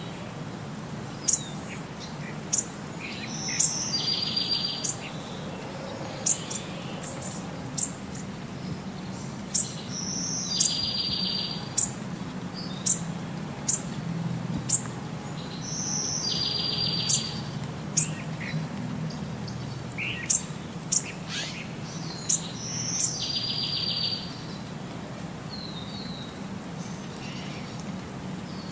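Birdsong: sharp high chirps about once a second, with a rapid high trill that comes back every six seconds or so in the same pattern, over a low steady background noise.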